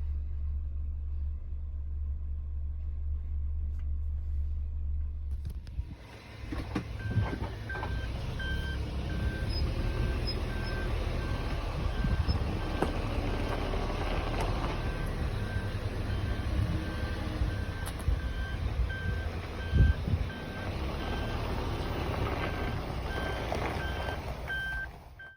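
Suzuki Jimny Sierra's 1.5-litre four-cylinder running: a steady low drone for about six seconds, then a louder mix of running noise with a few knocks. A high beep repeats about twice a second over this part. The vehicle is one its owner reports as making an abnormal noise.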